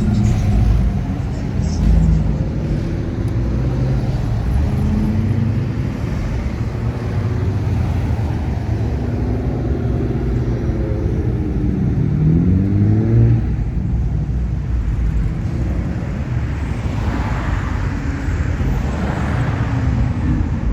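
Classic car engines rumbling as cars cruise past, with one engine revving up about twelve seconds in.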